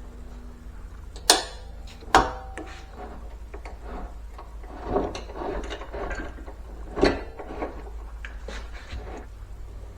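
Mechanical clacks, rattles and knocks from a drill press's moving parts being worked, over a low steady hum. Two sharp loud clacks come about a second and two seconds in, with softer knocks and rattles later.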